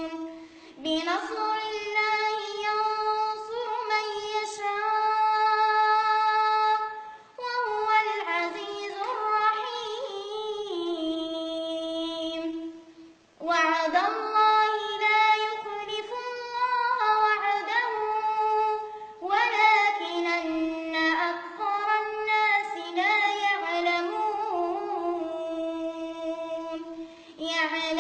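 A child's high voice reciting the Quran in melodic tarteel, holding long drawn-out notes in phrases separated by short breaths.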